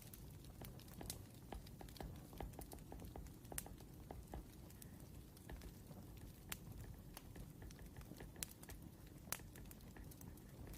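Wood fire crackling faintly: irregular sharp pops and snaps over a low, steady rumble.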